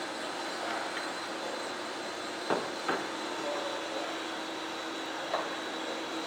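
Small electric motor of an RC model aircraft running steadily, with a faint steady whine. Three sharp knocks come in: two close together about two and a half seconds in, and one more near the end.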